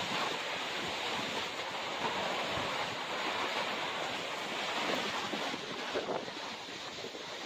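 Wind blowing hard across the microphone: a steady rushing noise with no distinct strikes.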